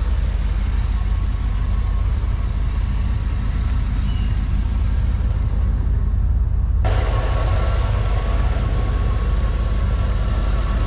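1985 Chevrolet Camaro IROC-Z's 5.0-litre (305) tuned-port-injected V8 idling steadily. Its sound turns suddenly brighter and closer about two-thirds of the way through.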